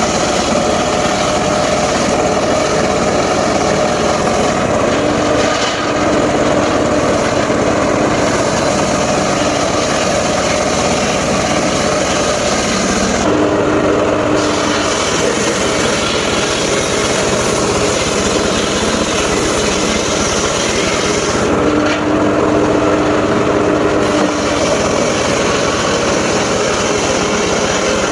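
Engine-driven mobile circular saw running steadily and loudly, sawing wood, with a steady tone rising out of the noise several times.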